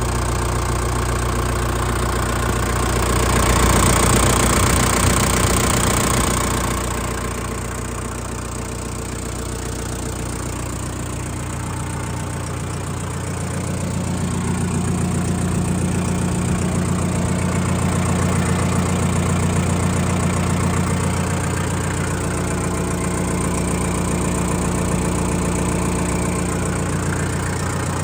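Shibaura SD3234 compact tractor's 32 hp four-cylinder diesel engine running steadily. It gets louder with added hiss a few seconds in, drops back, then picks up again about halfway through.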